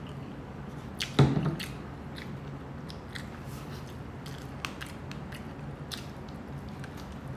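Chewing crispy fried pork belly (lechon kawali) up close: irregular crunches and smacking, with one louder crunch about a second in. A steady low hum runs underneath.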